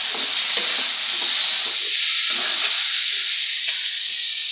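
Masala paste and green peas sizzling in hot oil in a nonstick pan as a flat spatula stirs them, with short scraping strokes over a steady sizzle; the strokes thin out about two seconds in.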